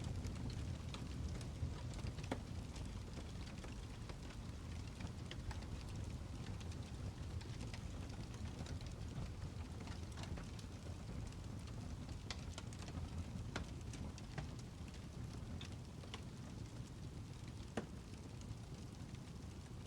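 Birch logs burning in a fireplace: a steady low rumble of flame with irregular crackles and sharp pops scattered throughout.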